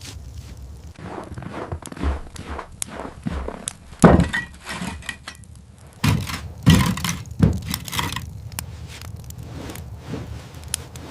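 Repeated knocks and thuds, with a heavy thud about four seconds in and a louder run of hits about six to seven and a half seconds in.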